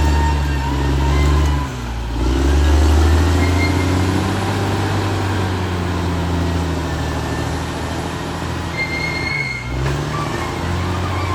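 Caterpillar D6R XL bulldozer's diesel engine running steadily under load, with a high whine over it; the engine note dips briefly about two seconds in and again near the end.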